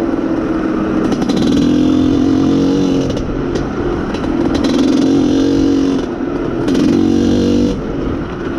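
IZh Planeta Sport's single-cylinder two-stroke engine running under way, growing louder three times as the throttle is opened and eased. The rider takes the engine to be running lean at high revs.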